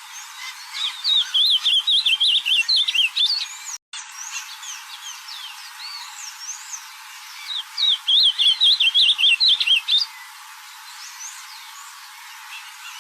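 Ultramarine grosbeak (azulão) singing: two rapid, warbling song phrases of about two and a half seconds each, one starting about a second in and one about eight seconds in, with faint chirps of other birds between them.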